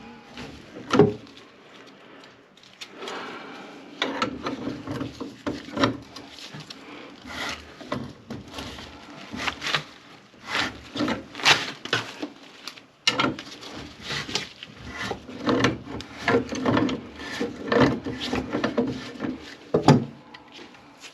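Irregular knocking, clattering and scraping of hard objects being handled, many short knocks with brief pauses, busiest in the second half.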